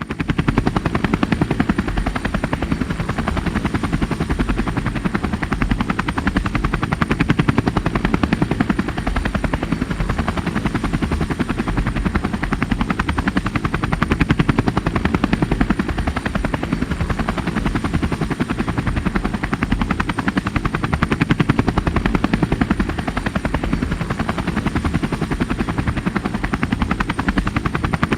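A steady, very fast mechanical chopping noise with most of its weight low down, starting suddenly and running on without a break.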